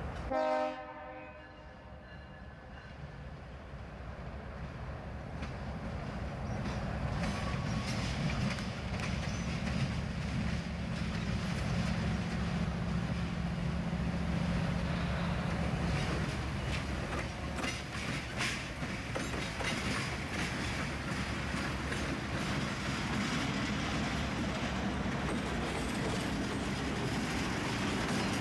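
Diesel freight train rumbling and drawing closer, with a steady low locomotive drone in the middle and wheels clicking over the rail joints. A short horn blast sounds right at the start.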